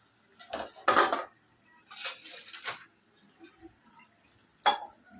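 Metal spoon clanking and scraping against a cooking pot: a few separate knocks, the loudest about a second in, a longer scrape a little after two seconds, and a sharp clank near the end.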